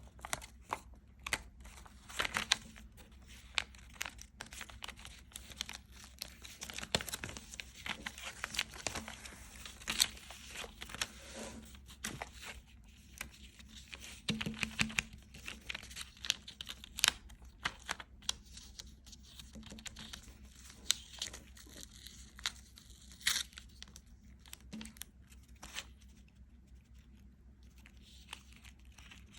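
Dense, irregular crinkling and crackling with many sharp clicks, thinning out over the last few seconds.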